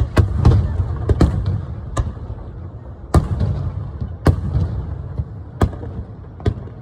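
Aerial firework shells bursting overhead: about nine sharp bangs at uneven intervals, with a low rumble rolling on between them.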